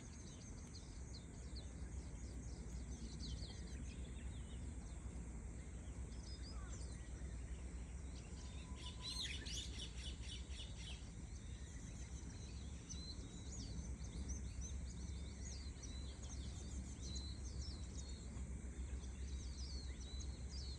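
Several small birds chirping and twittering on and off, with a burst of busier calling about halfway through, over a steady low outdoor rumble.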